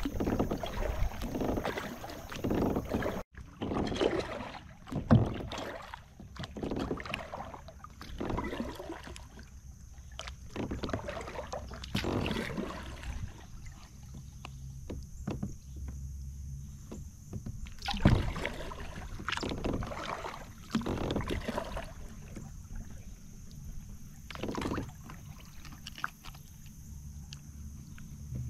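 Kayak paddle strokes dipping and splashing in calm water, a stroke every second or two, with a couple of sharper knocks standing out, one about 5 seconds in and the loudest about 18 seconds in.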